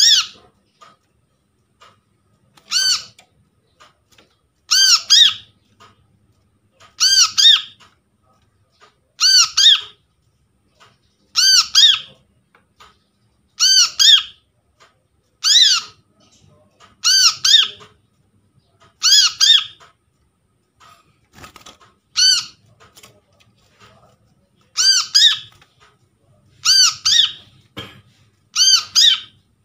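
Brown-throated sunbird (kolibri kelapa) calling: short bursts of two or three shrill, up-and-down notes, repeated about every two seconds.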